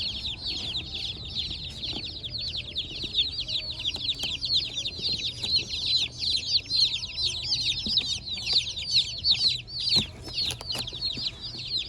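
A box of many baby meat chicks peeping all at once: a dense, continuous chorus of high, short, falling cheeps. A few sharp knocks sound about ten seconds in.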